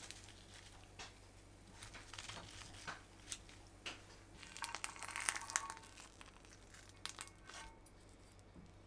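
Faint crinkling and scattered small clicks of something being handled, with a denser, louder burst of crinkling about five seconds in.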